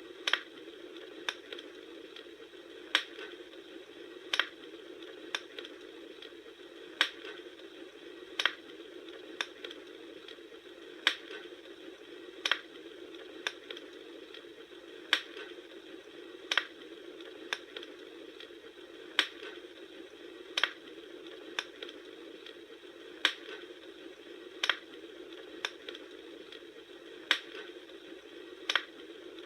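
Wood campfire crackling: sharp pops and snaps about once every second or so over a steady low hiss of the burning fire.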